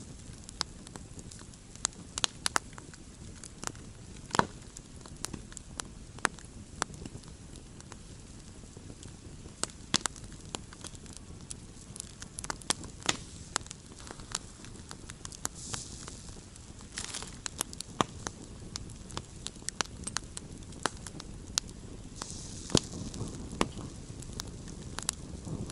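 Wood campfire crackling steadily, with irregular sharp pops and snaps over a low rustle of burning, and brief hissing flare-ups now and then.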